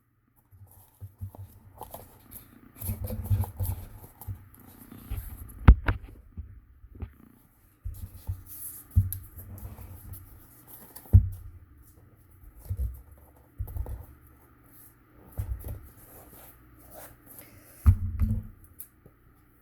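Cardstock being handled, folded and pressed down on a tabletop: irregular soft thumps and rustling, with a couple of sharp clicks.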